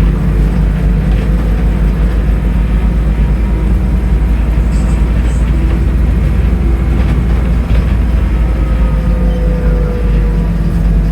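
Scania N310UA articulated city bus's diesel engine running steadily under way, a deep continuous rumble. A faint whine from the drivetrain rises slowly in pitch near the end.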